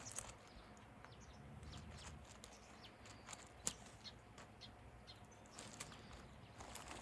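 Near-silent outdoor ambience with faint, scattered short bird chirps and an occasional small tick.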